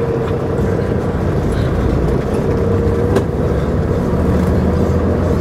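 Semi-truck diesel engine running steadily as the rig gets rolling, a low constant hum with a faint whine, heard from inside the cab. A single light click about three seconds in.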